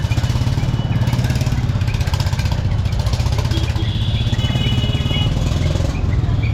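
A small engine running close by with a steady, fast low throb, typical of street traffic. About four seconds in, a high steady tone sounds for a second or so over it.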